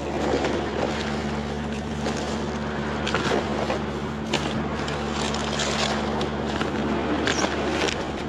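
A steady low machine hum, with scattered rustling and light clicks of items being handled.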